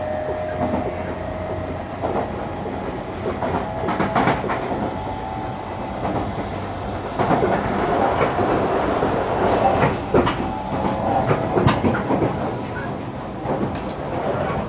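JR Kyushu 305 series electric train running, heard from inside a motor car: a steady rumble of wheels on rail with scattered clacks and knocks over the track. A thin steady whine from the drive fades out in the first couple of seconds.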